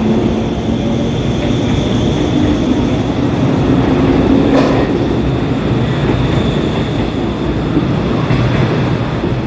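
JR 185 series electric multiple unit pulling out and rolling past close by, with a steady rumble of wheels and running gear on the rails. A single sharp clank comes about four and a half seconds in.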